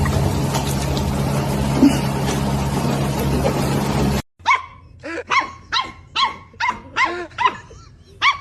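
A loud, steady noise with a low hum that cuts off suddenly about four seconds in, then a dog barking repeatedly, about two barks a second.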